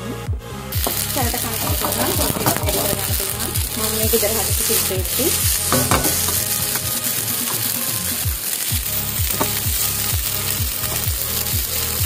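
Fried rice sizzling in a hot non-stick pan as it is stirred with a silicone spatula, the sizzle starting about a second in. Background music with a steady beat runs underneath.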